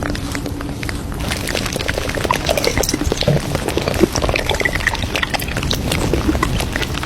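Café background sound: a dense clatter of small clinks and brief ringing tones, like crockery and cutlery, that grows busier about a second in, with liquid splashing or pouring.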